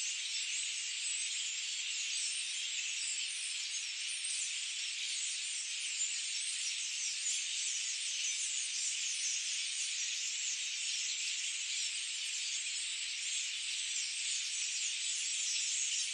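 Forest ambience: a dense, steady chorus of many overlapping high-pitched chirps and trills from wild animals, with no low sounds at all.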